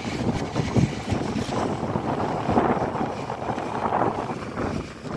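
Late-1940s Cadillac Fleetwood sedan's V8 engine running as the car moves off slowly, with wind buffeting the microphone.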